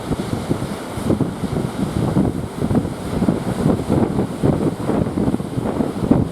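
Strong wind blowing across the microphone in irregular gusts, with the sea's waves underneath.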